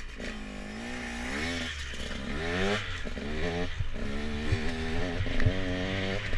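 Husqvarna TE 125 enduro motorcycle's single-cylinder engine, heard from the rider's helmet, revving up in several short rising pulls with dips between, then running at a steadier pitch as the bike rides off over dirt.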